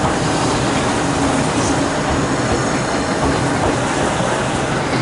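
Tobu 100 series 'Spacia' electric train cars rolling past at low speed as the train pulls out, a steady noise of wheels running on the rails, with the last car passing near the end.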